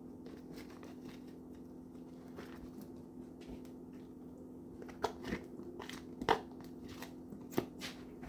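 A spoon scraping leftover food out of a container, with a few sharp clicks and knocks in the second half, over a steady low hum.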